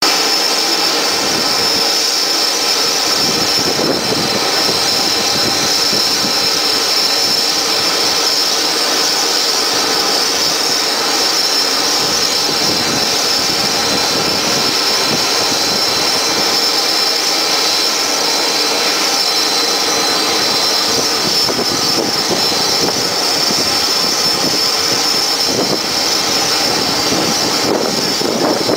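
Airbus A320 jet engines running: a steady rushing noise with a high, even whine.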